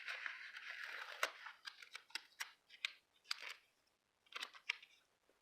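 Paper and sticker handling at a craft table: a steady rustling or peeling hiss for about the first second, then scattered light clicks and crinkles.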